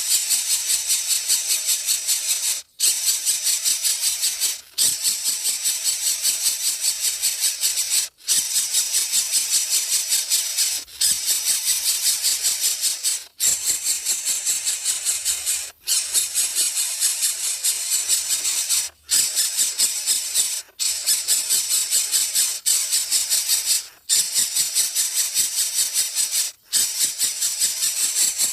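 Nestling bird's harsh, rasping begging calls: a rapid, hissing rattle repeated in bouts a couple of seconds long, each broken off by a brief pause.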